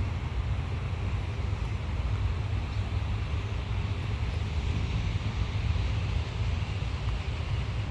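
Wind buffeting the microphone, a steady fluttering low rumble with outdoor noise behind it and no distinct engine note.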